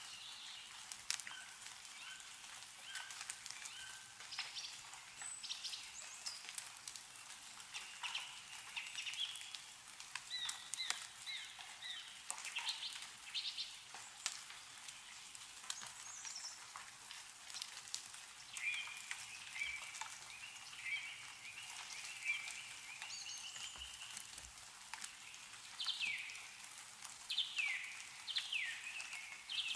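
Songbirds chirping and calling throughout, with quick downward-sweeping calls near the end, over scattered drips of melting snow falling from the trees.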